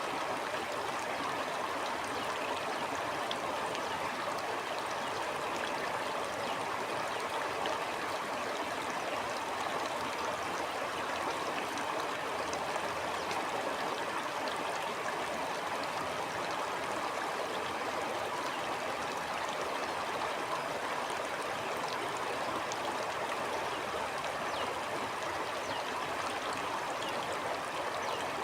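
Stream flowing steadily, a continuous even rush of water with fine small splashes and gurgles.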